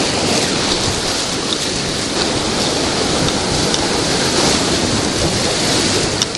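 Whitewater rapids rushing and splashing around a raft: loud, steady water noise.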